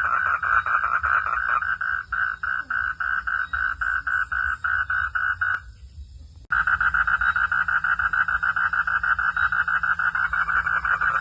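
Frogs calling at night in a fast, even pulsing chorus, about five pulses a second. It cuts out abruptly a little past the middle and comes back just as suddenly about a second later, with a low steady rumble underneath.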